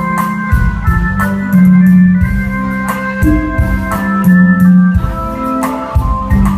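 Electronic keyboard music with an organ sound: held chords over a low bass line, with a percussion hit about once a second.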